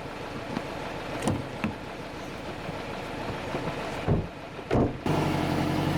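Wind and water noise on a small sailboat, with a few knocks, then about five seconds in an abrupt change to a steady engine hum.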